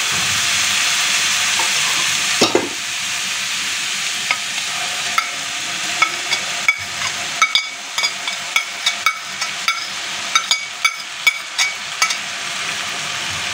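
Onion paste sizzling steadily in hot refined oil in a non-stick kadai. Wet ginger, garlic and green chilli paste is spooned in, and from a few seconds in the oil spits with many sharp pops and crackles.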